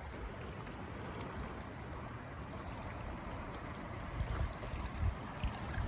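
A fast-moving, high river rushing steadily, with low gusts of wind buffeting the microphone in the second half.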